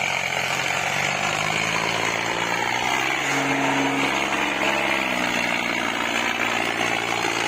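Sonalika DI 50 tractor's diesel engine running steadily at low speed, its note shifting slightly about five seconds in, while the tractor has not caught its gear.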